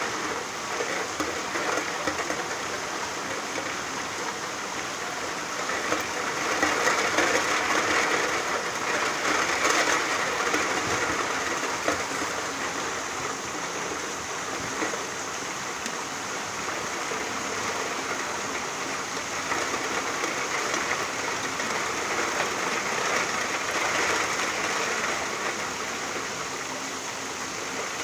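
Rain falling steadily, a continuous hiss that grows heavier for a few seconds about a quarter of the way in and again past the middle.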